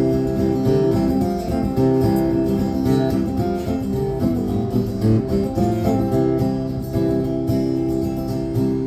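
Acoustic guitar strummed in a steady rhythm, playing the song's instrumental chord intro before the vocals come in.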